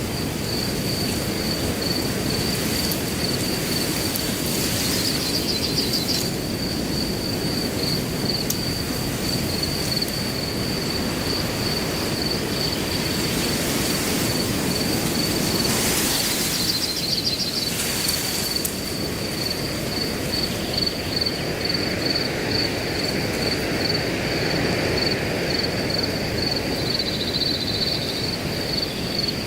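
Wind rushing through grass, swelling briefly about halfway through, under a cricket chirping in a steady, even pulse with a high pitch. A few short higher trills break in now and then.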